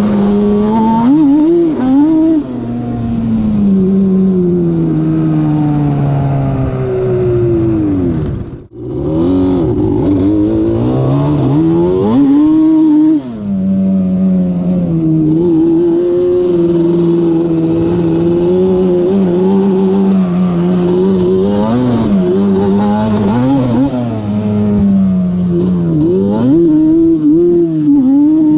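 Yamaha Banshee's twin-cylinder two-stroke engine, big-bored to 426 cc with a Cheetah kit, revving up and down through the gears under hard riding. The sound dips sharply for a moment about nine seconds in.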